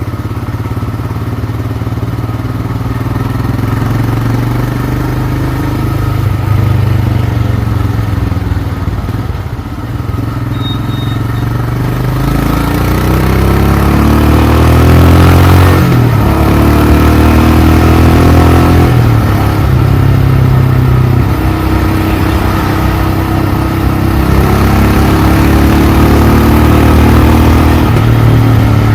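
Royal Enfield Himalayan's single-cylinder engine running on the move, with a rising engine note about halfway through that breaks and climbs again twice as it goes up through the gears, and wind noise growing with speed.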